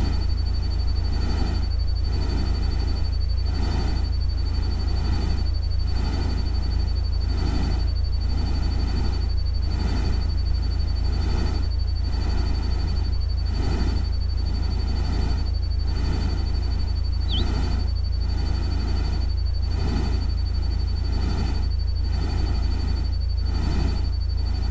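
Synthetic nature-sound ambience: a steady low rumble and a steady high whine under a soft noise that swells and fades in an even rhythm, about one and a half pulses a second. A single short bird-like chirp comes about two-thirds of the way through.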